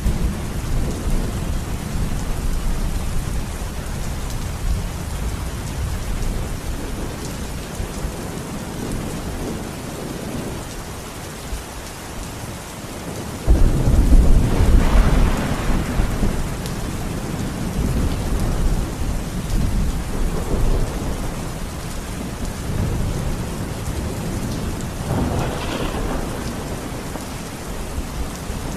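Steady rain with rolling thunder rumbling. About halfway through, a louder thunderclap breaks in suddenly and rumbles away over several seconds, and a softer roll comes near the end.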